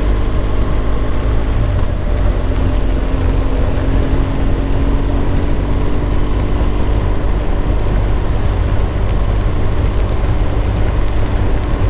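BMW R1200 GS boxer-twin engine running at a steady, low pace while the motorcycle is ridden, heard over a constant rush of wind and road noise.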